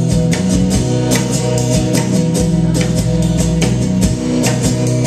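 Band playing an instrumental passage: guitar and bass notes over a steady drum beat.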